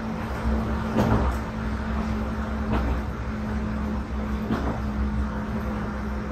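Diesel railcar running along the track: the engine gives a steady low drone with a hum, and the wheels knock about every two seconds.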